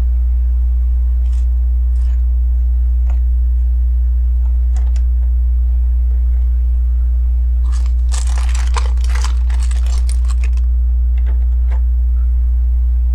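A few light clicks of plastic LEGO pieces, then about three seconds of dense plastic rustling and clattering as pieces are sorted through by hand, over a steady low electrical hum.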